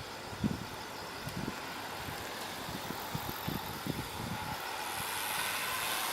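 Vehicle noise, a steady hiss that grows louder near the end, with a few faint low knocks.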